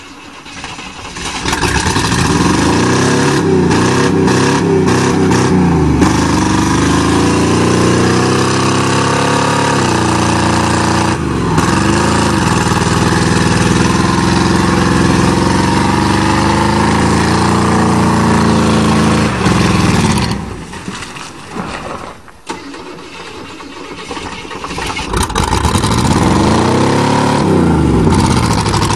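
1988 Chevrolet pickup's 305 V8 engine revving hard under load in mud, running on wet ignition wires. Its pitch swings up and down repeatedly. It builds up over the first couple of seconds, falls away about twenty seconds in, and climbs again near the end.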